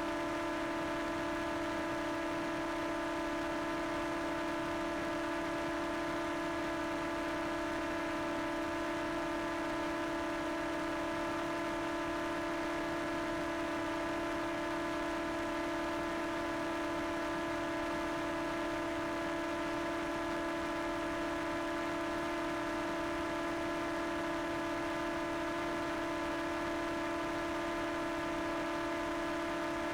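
Multirotor drone's propellers humming steadily at an unchanging pitch, with several higher tones above the main hum.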